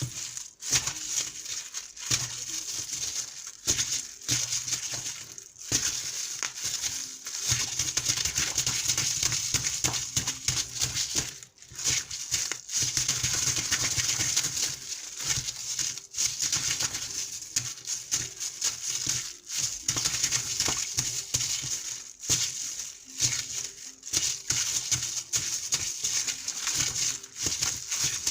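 Water splashing and running: a steady hiss broken by many short pauses.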